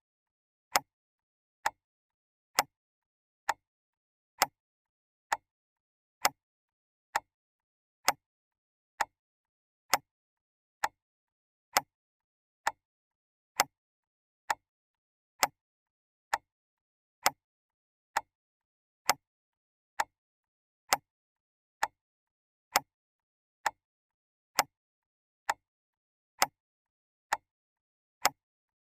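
Mechanical clock ticking steadily, a little more than one tick a second, with silence between the ticks.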